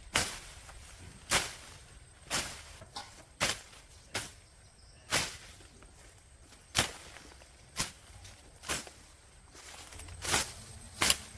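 A hand tool striking again and again in a chopping or digging rhythm, about one sharp hit a second at uneven intervals. One of the hits near the end is the loudest.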